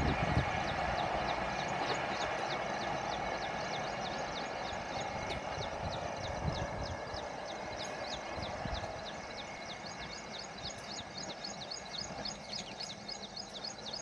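Humsafar Express passenger train receding down the track, its rolling rumble fading steadily. From about two seconds in, a quick regular series of high chirps, several a second, joins it.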